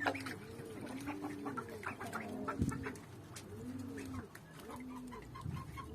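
Backyard poultry calling: a run of low, arching coos about once a second mixed with clucks. Near the end comes a quick string of short peeps, about five a second.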